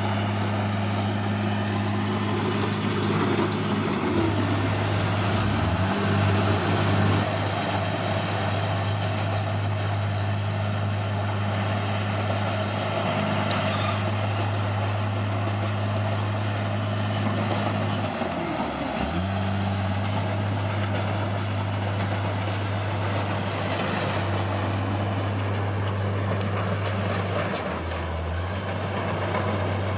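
Caterpillar D6R bulldozer's diesel engine running steadily under work. Its pitch sags briefly three times, about five seconds in, near the middle and near the end, as it takes on load, then recovers.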